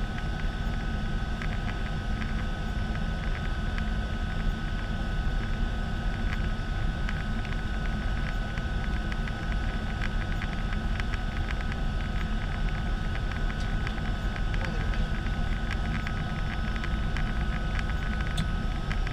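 Air Tractor AT-502's PT6A turboprop engine running steadily, a dense engine and propeller noise with a steady high turbine whine and scattered short ticks.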